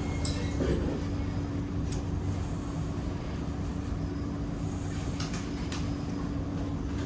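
Kawasaki–CRRC Sifang C151A metro train standing at the platform, its equipment giving a steady low hum with a few light clicks. A higher whine cuts out about a third of a second in.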